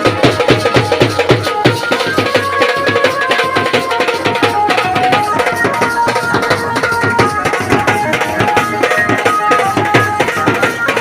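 Indian banjo band music: a melody picked out on an Indian banjo over fast, steady hand-drum beats.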